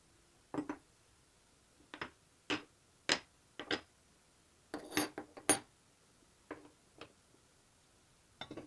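Small metal parts and hand tools clinking and knocking against each other and a hard surface as they are handled and set down, in irregular single and double strikes, the loudest around the middle.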